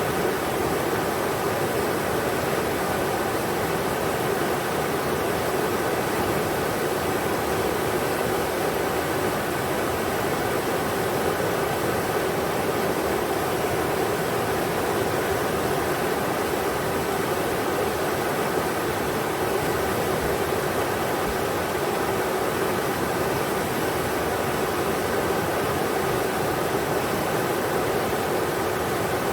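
River water rushing steadily, an even wash of flowing-water noise with nothing standing out.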